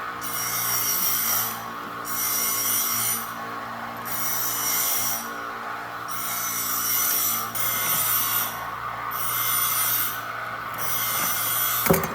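A hand tool worked slowly back and forth on wood, giving about seven long, even rasping strokes with short pauses between them, over a faint steady hum.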